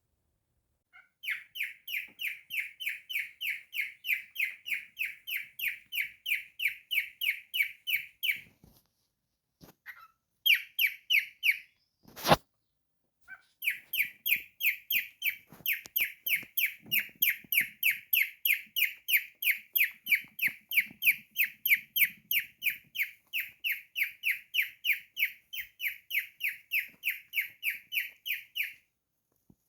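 Cockatiel giving long runs of short, evenly repeated high chirps, about four a second, broken by two brief pauses. A single sharp click sounds about twelve seconds in.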